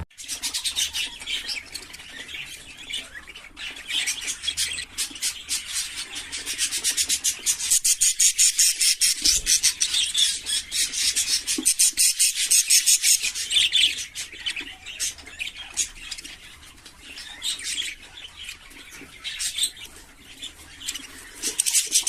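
A flock of budgerigars chirping and chattering in a rapid, continuous warble, busiest in the middle and thinning out toward the end.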